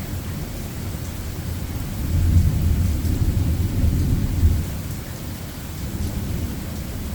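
Thunder rumbling over steady rain; the deep rumble swells about two seconds in and dies back after about four and a half seconds.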